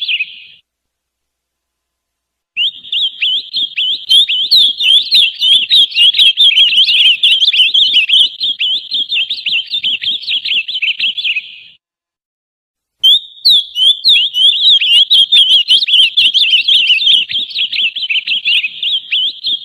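Ultramarine grosbeak (azulão) giving a fast, dense, continuous run of chirps and twitters, the excited 'esquenta' warm-up song. It cuts to silence twice: for about two seconds just after the start, and for about a second about two-thirds through.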